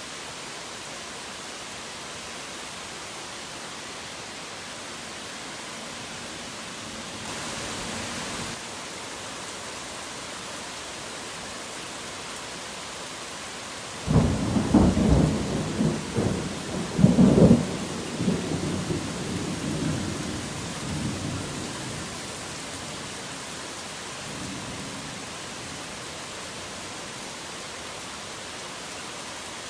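Steady heavy rain, with a sudden loud crack of thunder about halfway through that rumbles on in several peaks for some seconds and fades away, and a faint further rumble near the end.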